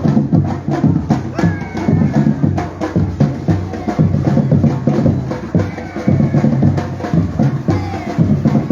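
Batucada drum group playing in the street: a dense, driving beat of drums and wood blocks, with voices calling over it.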